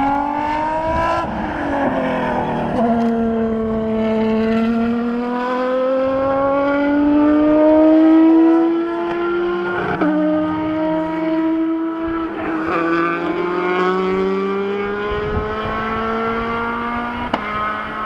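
High-revving supercar engine accelerating hard through the gears. Its note climbs steadily and falls sharply at each upshift, several times over.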